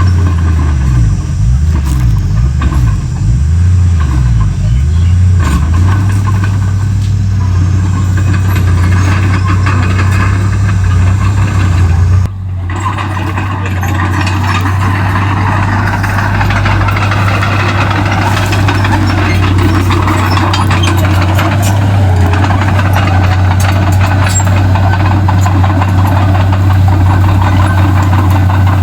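Diesel engine of a Komatsu D31P bulldozer running hard. Its pitch wavers up and down over the first few seconds, then holds steady. The sound drops out suddenly and briefly about twelve seconds in.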